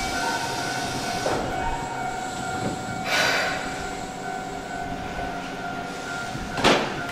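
Keihan electric train at the station, giving a steady whine of several held tones over a bed of noise. Three short hissing bursts come through it: one about a second in, a broader one about three seconds in, and a sharp one near the end.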